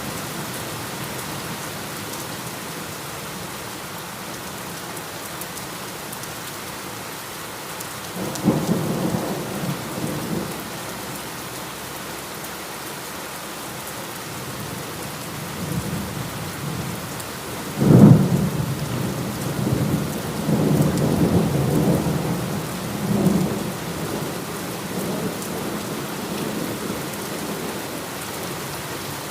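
Steady heavy rain with thunder: a rumble about eight seconds in, then a sharp loud crack near the middle that rolls on for several seconds.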